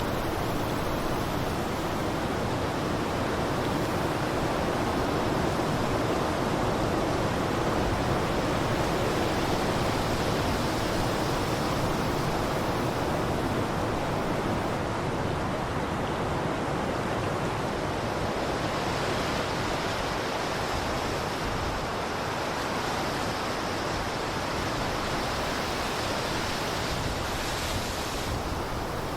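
Blizzard wind blowing in a steady rush, swelling and easing slowly.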